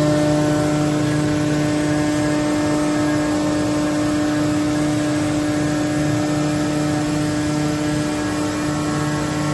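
CNC machine tools running in a machine shop: a steady mechanical hum with one strong steady tone and several fainter ones, unchanging throughout.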